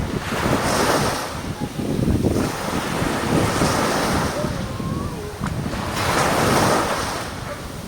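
Sea waves breaking and washing in, swelling and fading three times, with wind buffeting the microphone as a steady low rumble.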